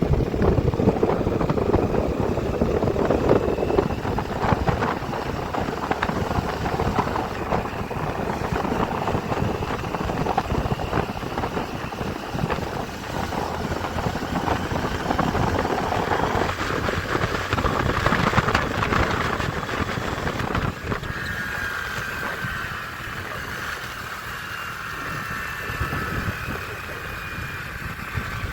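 Tractor engine running steadily, a little quieter in the last third.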